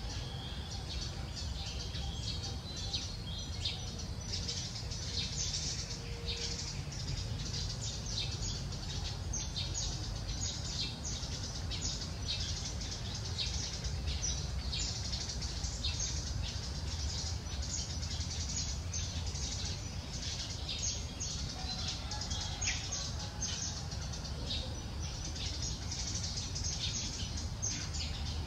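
Small birds chirping rapidly and continuously in short high notes, over a steady low rumble.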